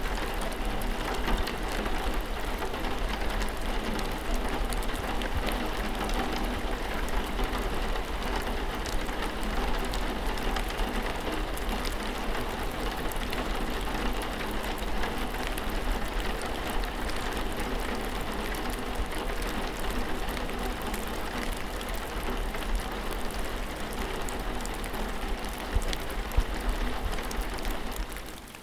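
Steady rain falling, many small drop ticks over an even hiss with a constant low rumble underneath. The level dips briefly right at the end.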